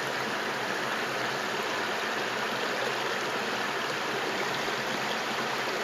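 Creek water running over a little waterfall: a steady, even rushing.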